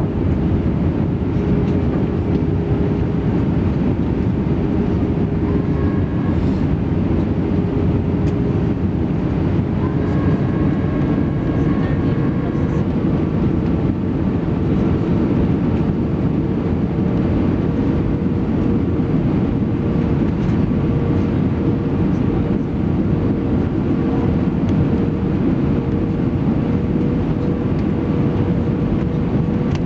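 Airbus A320-214's CFM56 engines and airflow heard inside the passenger cabin: a steady, heavy rumble with a whine that climbs slightly in pitch about ten seconds in.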